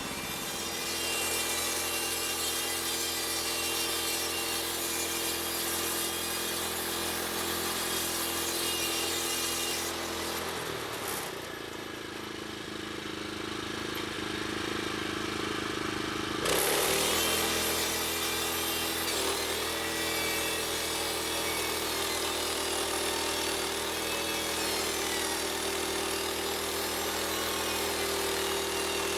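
Woodland Mills portable band sawmill running: its gas engine hums steadily while the band blade saws through a log. A little over a third of the way in, the cutting noise drops away for several seconds, then comes back suddenly.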